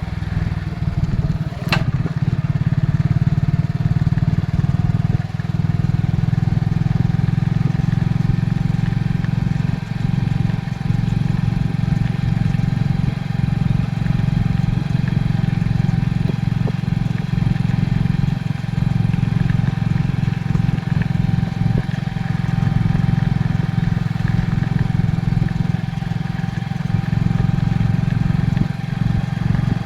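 Motorcycle engine running at a steady cruising speed during a ride, with a low drone and a steady tone, and wind and road noise. A single sharp click comes near the start.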